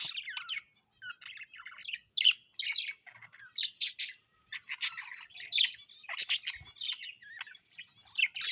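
Birds chirping and calling in a fast, busy run of short, high notes with only brief gaps between them.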